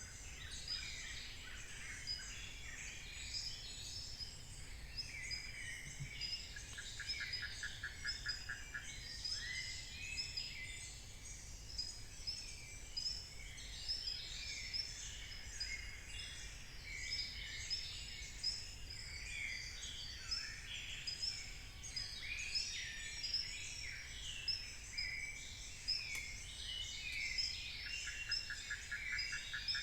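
Dense dawn chorus of many forest birds, with overlapping chirps, whistles and short falling notes throughout. A fast, even trill sounds twice, about seven seconds in and again near the end, over a steady low rumble.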